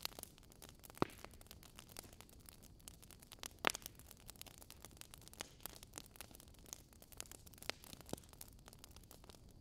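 Wood fire burning in a fireplace, crackling with irregular sharp pops over a soft steady hiss; the loudest pops come about a second in and about three and a half seconds in.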